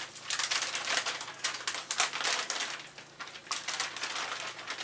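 Packaging being handled, with irregular crinkling and rustling.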